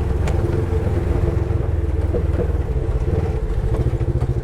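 Polaris side-by-side UTV engine running at a steady, even speed, heard from on board.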